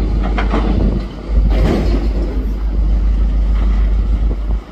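Demolition machine running under a steady low rumble while masonry and rubble crash down as a building corner collapses, with a few short knocks at the start and the biggest crash about a second and a half in.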